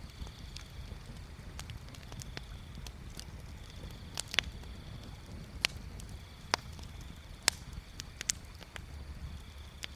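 Wood bonfire crackling: irregular sharp pops and snaps of burning wood, a handful of them loud, over a steady low rumble.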